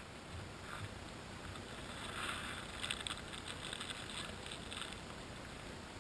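Faint lapping and small splashes of water, with soft crackly patches of splashing between about two and five seconds in.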